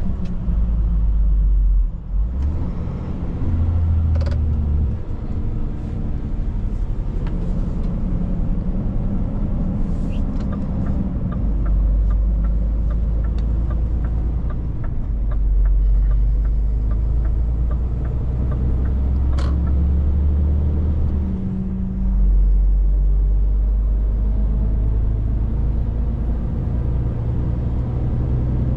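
Scania 500S truck engine running under way, a loud low rumble heard in the cab. The engine note drops and picks up again several times, and a run of light regular ticks comes in the middle.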